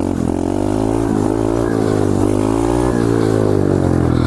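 Single-cylinder 125cc four-stroke engine of an SSR pit bike running under throttle while riding, its pitch rising and falling gently as the throttle is worked.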